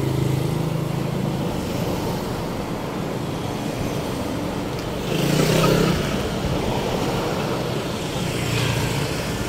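Street traffic: vehicle engines running steadily, with one vehicle passing closer and louder about five seconds in.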